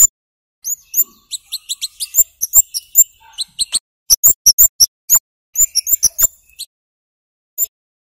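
Scarlet-headed flowerpecker (kemade, cabai jawa) giving sharp, very high 'cit' calls in rapid series, stopping after about six and a half seconds with one last note near the end.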